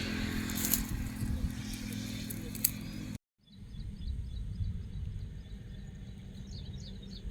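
Outdoor ambient noise with a low rumble, cut off abruptly about three seconds in; after a moment it resumes quieter, with faint high chirps.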